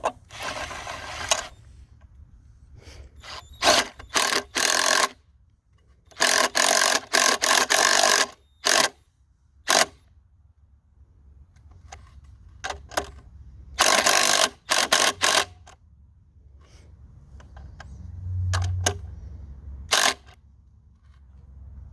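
Impact driver driving lag bolts into timber in repeated bursts of rapid hammering, each from a fraction of a second to about two seconds long, with pauses between them.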